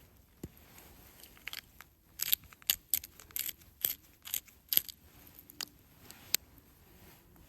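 A run of sharp, irregular clicks and crunches, a dozen or so over about five seconds, as of small hard objects being handled or broken.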